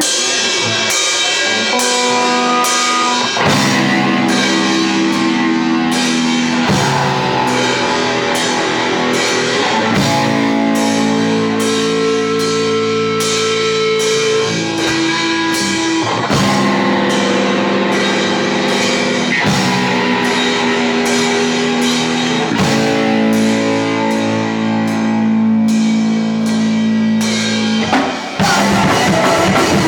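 Punk rock band playing live: electric guitar chords changing every few seconds over a steady drum-kit beat.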